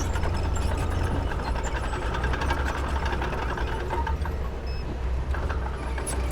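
Heavy diesel earthmoving machine running with a steady low engine rumble and rapid metallic clicking and rattling, with a faint high whine in the middle.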